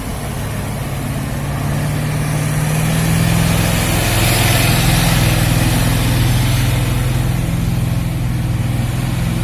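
Heavy truck engine running steadily, growing louder to a peak about halfway through and then easing off a little.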